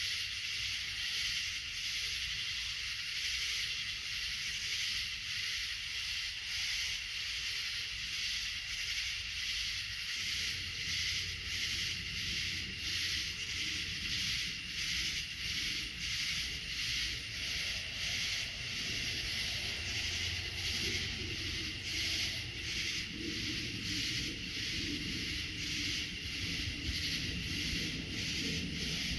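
An insect chirping in a steady, even rhythm of about one and a half pulses a second. A low rumble builds underneath from about a third of the way in.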